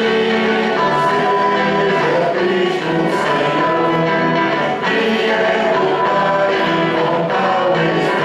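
A choir singing a hymn with instrumental accompaniment, in held chords that shift every second or two.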